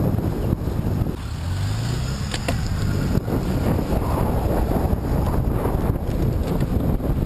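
Wind buffeting the microphone of a camera carried on a bicycle riding into a headwind: a steady, loud low rumble.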